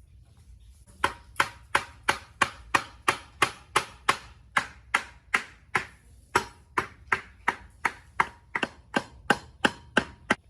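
Repeated sharp knocks of a hand tool on a metal part, about three blows a second in a steady rhythm, each with a short ring.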